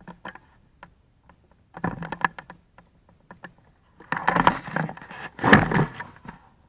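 Scattered clicks and rustling, with a short burst of crunching about two seconds in and a longer one from about four to six seconds in.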